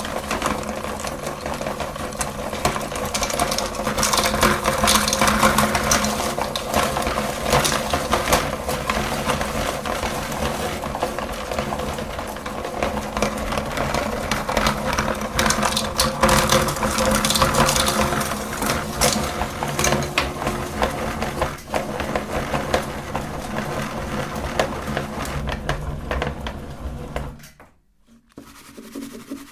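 Electric meat grinder running with a steady motor hum, candy crackling and crunching as it is pushed through. The grinder stops near the end.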